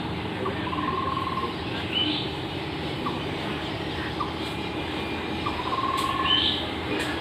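Bird calls: scattered short chirps, two brief buzzy trills and a couple of quick rising chirps, over a steady background hiss.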